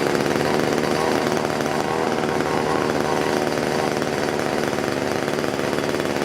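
Variolux 31 cc two-stroke blower engine running steadily just after a cold start, a fast, buzzing small-engine note.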